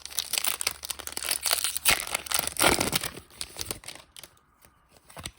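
Foil wrapper of a Pokémon card booster pack crinkling and tearing as it is ripped open, a dense crackle for about four seconds that thins to a few small clicks near the end.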